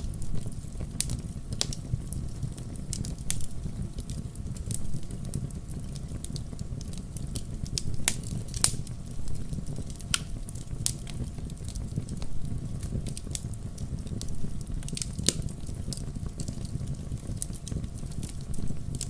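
Wood fire burning in a fireplace: a steady low rumble of flames with irregular crackles and sharp pops, one louder pop a little under halfway through.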